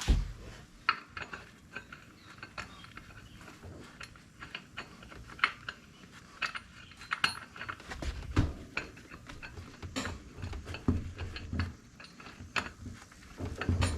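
Irregular metal clinks and clunks, with a few heavier low thuds, as a tractor wheel is shifted and worked onto the hub.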